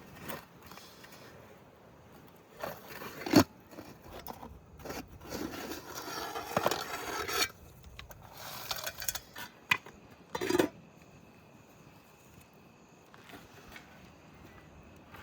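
Cooking utensils scraping and knocking: bursts of rough scraping with a few sharp clinks, the loudest about three seconds in, then a quieter stretch near the end.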